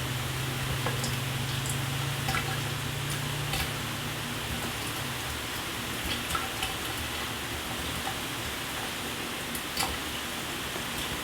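Shower water spraying and splashing as a steady hiss, with scattered sharper drips and splats. A low hum underneath fades out about four seconds in.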